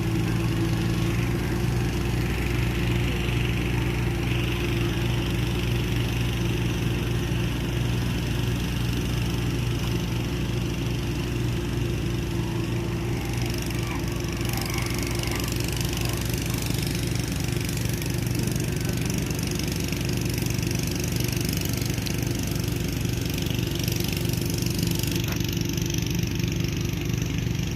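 Kubota tractor engine running at a steady speed.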